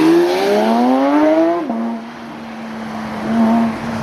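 A car engine revving hard, its pitch climbing steeply, then dropping abruptly less than two seconds in as it shifts or lifts off. After that it runs at a steady pitch.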